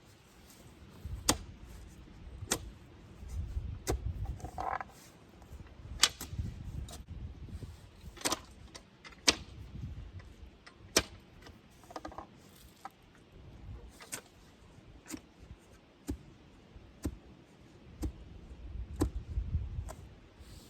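Manual post hole digger jabbed again and again into sandy soil: a sharp metal clink every second or two, many with a dull thud, as the hole is dug deeper.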